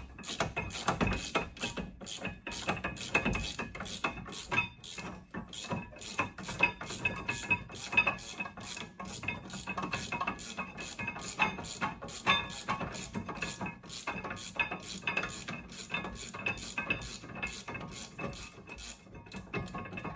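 Hand ratchet wrench clicking rapidly and steadily as bolts on a rusted rear brake assembly are turned out, with music underneath.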